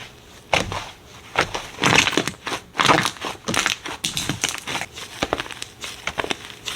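Slime being squeezed and worked by hand: an irregular run of squishes and crackles, several a second.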